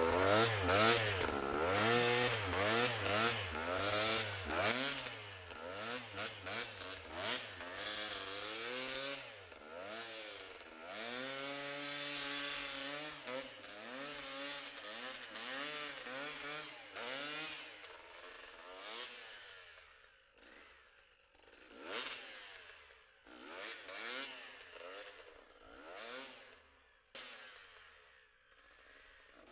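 Enduro motorcycle engine revving up and down again and again, then growing fainter, with only short revs now and then in the last third.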